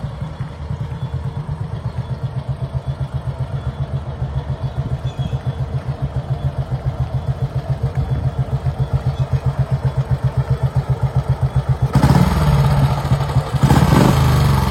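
An engine running with a quick, even beat that slowly grows louder; about twelve seconds in it turns suddenly louder and fuller.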